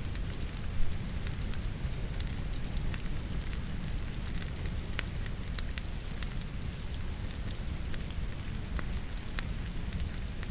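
Wood logs burning in a fireplace, crackling and popping with sharp irregular snaps, over a steady rush of rain.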